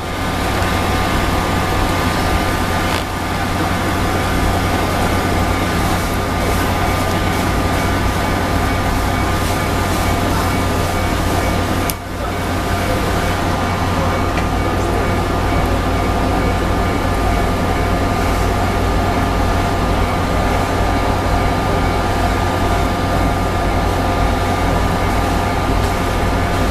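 Steady hum and drone of electric trains standing at a station platform, with several held tones over a low hum, as from their auxiliary machinery running; a brief dip and click about twelve seconds in.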